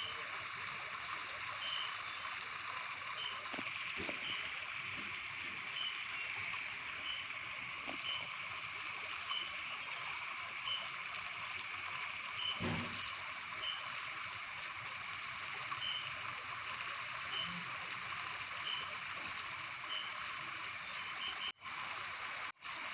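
Steady insect chorus: a rapid, regular high chirping over a constant hiss, with fainter chirps about once a second.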